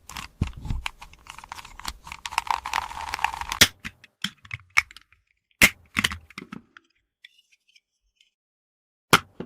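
Small toy pieces being handled: a run of sharp clicks and taps, a dense scratchy stretch about two to four seconds in, a few more clicks, then a pause before one last click near the end.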